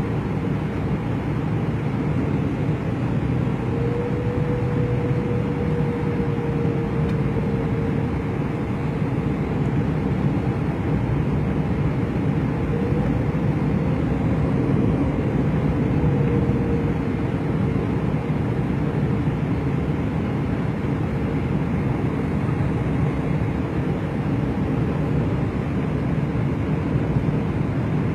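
Steady rumble of an airliner heard from inside the passenger cabin: engine and airflow noise with a faint wavering whine through the middle.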